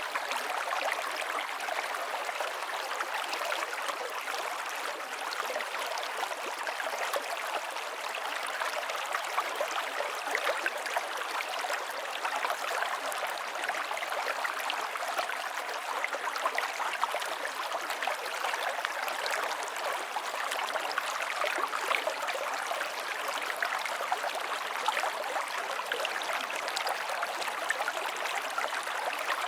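River water flowing and splashing steadily, a continuous rushing with fine bubbling and splashing detail.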